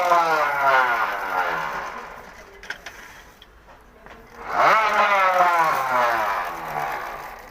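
Electronic sound unit on a bicycle sounding twice, set off by a switch: each time a pitched tone jumps up quickly and then slides slowly down over about three seconds.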